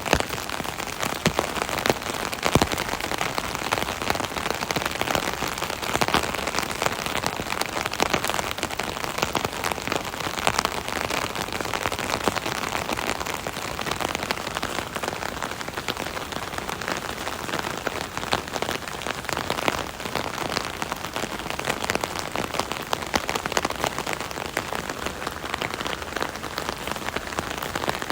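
Rain pattering on an umbrella canopy: a steady dense patter of many separate drop taps.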